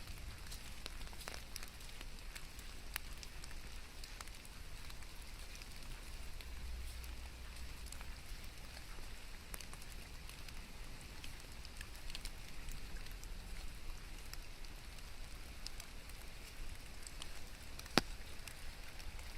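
Rain falling steadily, a soft hiss dotted with the small ticks of individual drops over a low rumble, with one sharp louder tick near the end.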